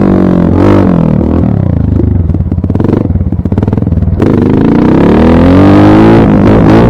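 Dirt bike engine coming off the throttle, its pitch falling to a slow, pulsing low speed, then opened up again about four seconds in, revving back up and holding high.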